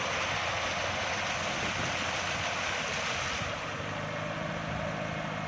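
Water gushing in a loud, steady rush from the pump line of a tractor-driven irrigation pump, pouring out where a joint has come loose and is not tight. About three and a half seconds in the rush thins and a low, steady engine hum comes forward.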